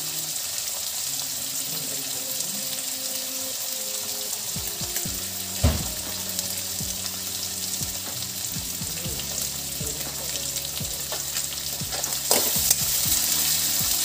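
Paneer cubes, cashews and raisins sizzling as they roast with whole spices in a little oil in a kadhai, a steady hiss. There is a single sharp knock about halfway. Near the end come louder scrapes and clinks as the mixture is stirred against the wok.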